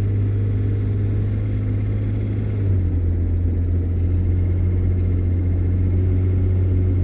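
Vehicle engine running steadily on the move, heard from inside the cab as a low drone. About two and a half seconds in, the drone drops slightly in pitch and gets a little louder.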